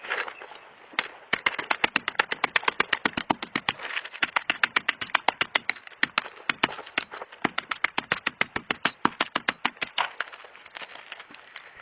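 A fast run of sharp knocks or taps, several a second, starting about a second in and thinning out near the end.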